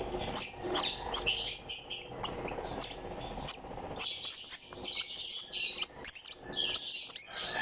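A young hand-fed African lovebird chirping repeatedly in thin, high-pitched calls, densest in the second half.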